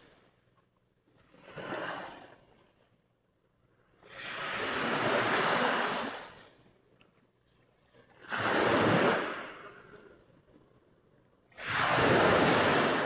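Mediterranean Sea waves breaking and washing in: four separate surges, a weak one near the start and then three loud ones a few seconds apart, with near quiet between them.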